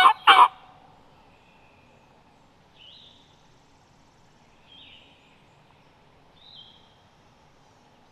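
The last rapid pulses of a loud turkey gobble, cut off about half a second in. Then quiet woodland background with a few short, faint high-pitched bird calls about every two seconds.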